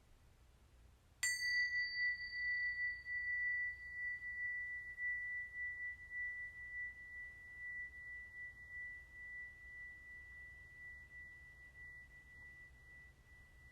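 A small metal chime struck once about a second in, ringing on as one high, clear tone that slowly fades. Brief higher overtones die away within the first few seconds.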